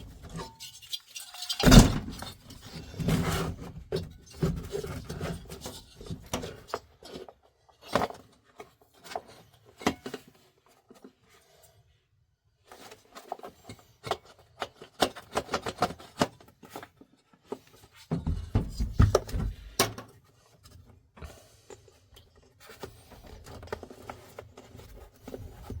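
Parts of a diesel heater being handled and fitted back together by hand: irregular clicks, knocks and scrapes, with a sharp knock about two seconds in.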